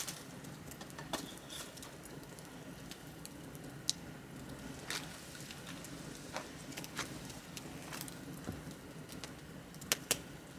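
Wood fire crackling: a low steady rush of burning with scattered sharp pops of burning wood, two close together near the end.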